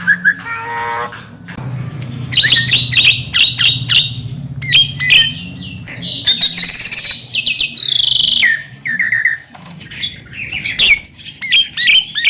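Javan myna singing a fast, rambling song of clicks, short whistles, sliding notes and harsh scratchy squawks.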